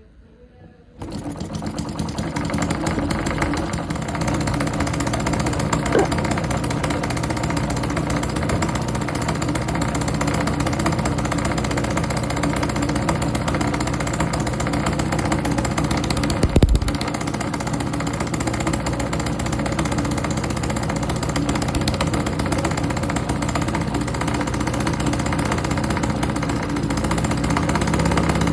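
Small homemade four-stroke engine running steadily at a constant speed. It comes in abruptly about a second in, and a single low thump sounds about halfway through.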